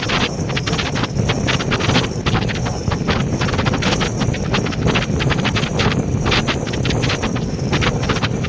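Passenger train running at speed: a constant low rumble with a fast, irregular rattle of wheels on track, with wind buffeting the microphone.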